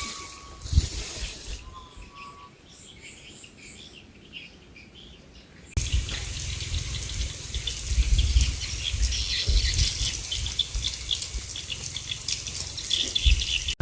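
Birds chirping softly. About six seconds in, a louder rushing noise with a low rumble and rapid crackling ticks cuts in suddenly.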